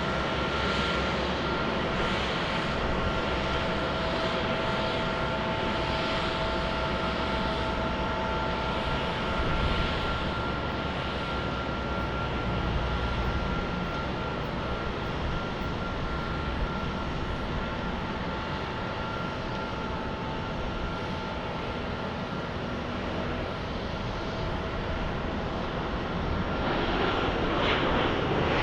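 Jet airliner engines running with a steady rushing noise and a high whine of several steady tones, the whine fading out about three quarters of the way through. Near the end a louder rush builds up.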